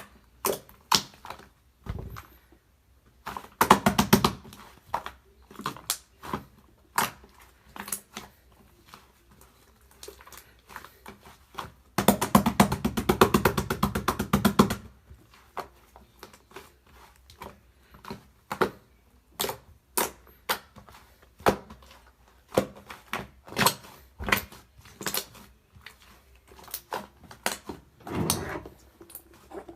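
Fluffy mixed slime being pressed and squished by hand: irregular sticky clicks and pops, with dense runs of rapid crackling about four seconds in and again from about twelve to fifteen seconds.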